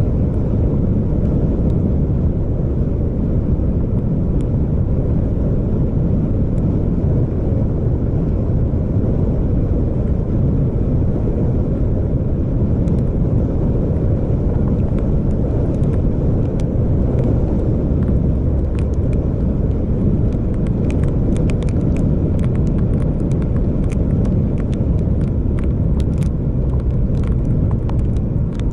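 Steady low rumble of a vehicle driving along a road, engine and tyre noise without let-up. From about two-thirds of the way in, scattered light ticks and clicks sound over it.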